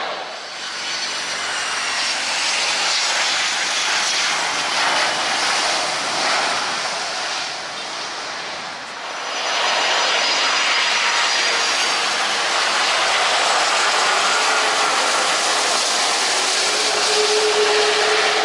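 Jet airliner engines on landing approach: a loud, steady rush of engine noise with high whines that slide down in pitch as the aircraft passes.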